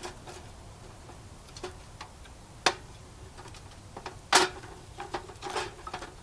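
Handling noises: scattered light clicks and knocks, with a sharp one after about two and a half seconds and the loudest just past four seconds, followed by a few smaller ones.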